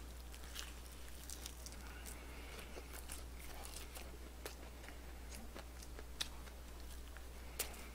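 Faint chewing of crispy fried chicken: soft crunches and small sharp mouth clicks scattered irregularly, over a low steady hum.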